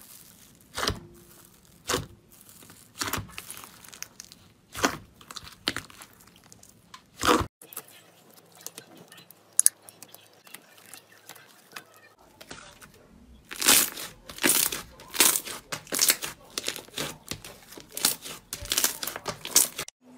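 Slime being squeezed and pressed by hand, giving irregular crackling, popping and tearing sounds. The pops come about one a second at first, and a denser run of louder crackles starts about two-thirds of the way in.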